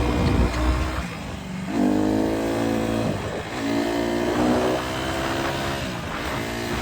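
A dirt bike's single-cylinder engine accelerating. Its pitch climbs, drops at each shift and climbs again, three times, before it settles into a steadier lower run near the end, with a low rumble of wind and riding noise underneath.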